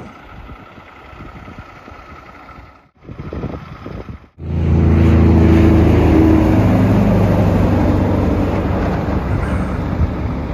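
Quiet outdoor noise, then after a cut about four seconds in, a heavy truck's diesel engine running loud and close, a deep hum whose pitch sinks slightly.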